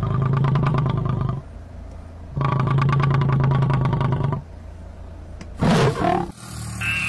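Lion roaring in two long, low calls, the first about a second and a half long and the second about two seconds. A short, loud call of a different kind follows near the end.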